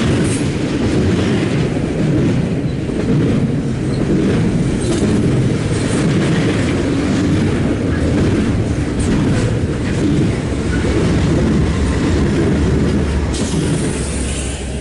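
BNSF double-stack intermodal container train rolling past close by: a loud, steady low rumble of wheels on rail with occasional clacks. The rumble drops off near the end as the last car passes.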